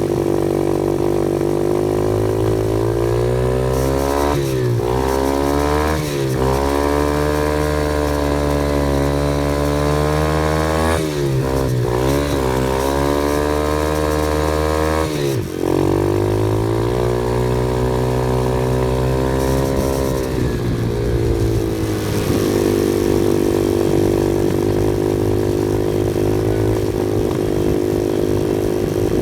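Off-road vehicle engine running under changing throttle on a trail, its pitch climbing and then dropping sharply four or five times before settling into a steadier run for the last third.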